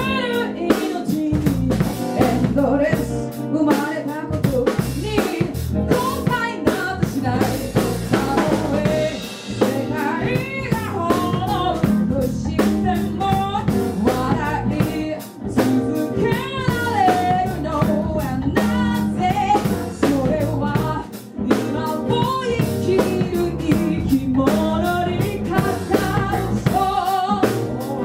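Band music: a drum kit keeping a steady beat under a singing voice and other instruments.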